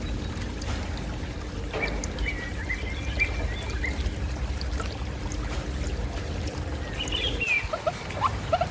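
Running, trickling water over a steady low rumble. Near the end, a series of short high squeaks begins.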